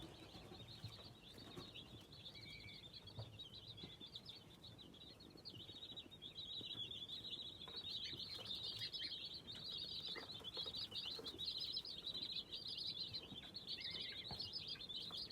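Many young chicks peeping together in a continuous high chatter, growing louder about six seconds in.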